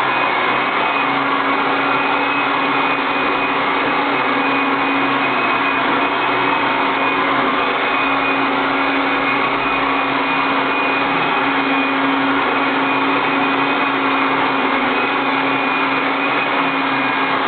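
Automatic robot vacuum cleaner running steadily, its motor giving a constant hum under an even rush of suction noise.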